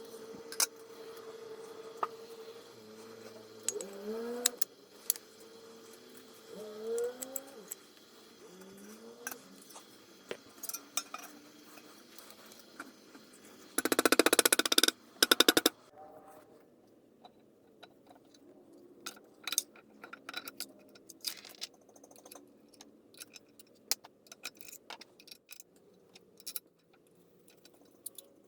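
Clicks and taps of small metal parts being handled and fitted, with a loud buzz lasting about a second and a half near the middle, and a steady hum with a few rising whines in the first part.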